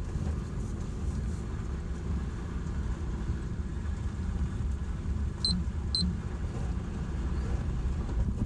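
Truck camper driving on a dirt desert track: a steady low rumble of engine and tyres. Two short high beeps, about half a second apart, a little past the middle.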